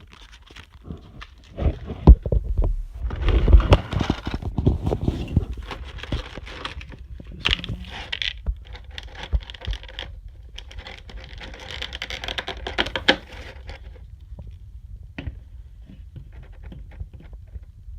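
Hands handling a model kit's packaging and parts: irregular rustling, scraping and small clicks and knocks, busiest in the first part and quieter from about 14 seconds in.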